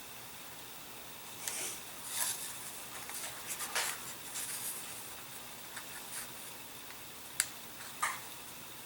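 Hands working small model-aircraft parts, fitting pushrod ends into the holes of plastic control horns: faint rustling and small clicks, with a sharp click about seven and a half seconds in and another just after.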